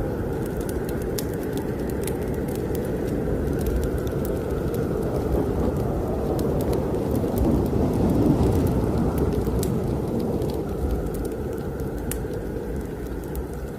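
Snowstorm wind blowing as a low, dense rumble that swells about eight seconds in and eases toward the end, with scattered sharp crackles of a fireplace fire.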